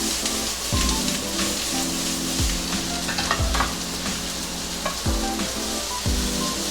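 Onions and bell peppers sizzling in hot oil in a sauté pan as they are stirred, a steady frying hiss, under background music.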